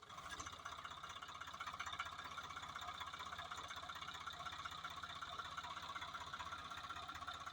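Swaraj 744 FE tractor's three-cylinder diesel engine running steadily, with an even, rapid low pulsing.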